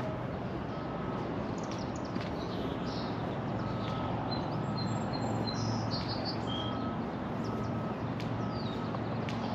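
Birds chirping briefly a few times over a steady low hum of distant city noise.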